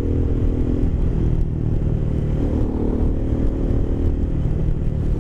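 2015 Aprilia Caponord 1200's 1197 cc V-twin running steadily through a GPR Furore carbon slip-on exhaust.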